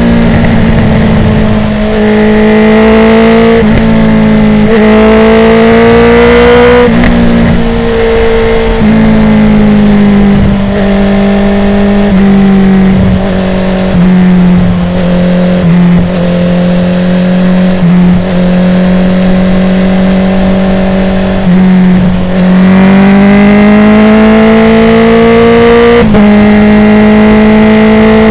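2019 Honda CB650R inline-four running through an Akrapovic full titanium exhaust with the dB killer removed, under hard acceleration. Its note climbs and drops sharply several times in the first seven seconds as it shifts up through the gears. It then holds a steady high-speed cruise and climbs again near the end.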